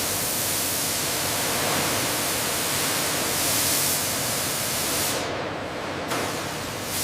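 Steady, loud hiss of rushing, spraying water, thinning and growing duller about five seconds in.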